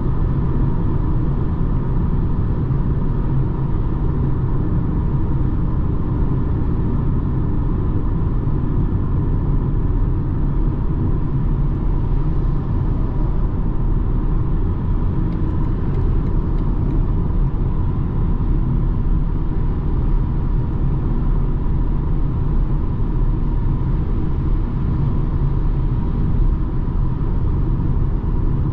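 BMW 220d xDrive Gran Coupé (F44) driving at a steady pace: an even low rumble of road and engine noise from its four-cylinder diesel and tyres, with no change in pitch or loudness.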